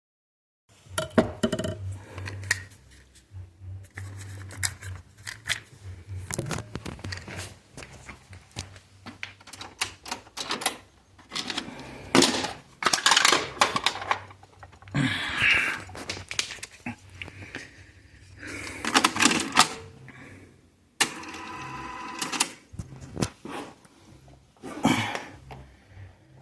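Plastic audio cassette shell being handled and reassembled by hand: irregular clicks, taps and scrapes of small plastic parts, with a steady whirring tone lasting about two seconds near the end.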